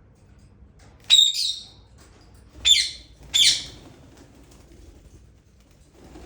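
Indian ringneck parakeet giving three loud, shrill squawks. The first comes about a second in; the other two follow close together about a second and a half later.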